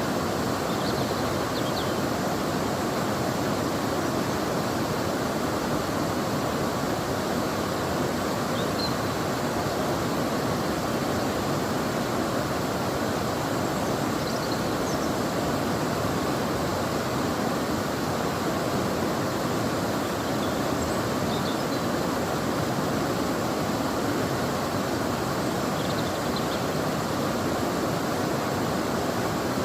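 River water flowing in a steady, even rush. A few faint, short high chirps come and go over it.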